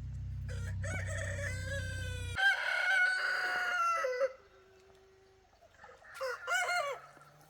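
Rooster crowing: one long crow of about four seconds, then a second, shorter crow near the end. A low hum underneath stops abruptly about two and a half seconds in.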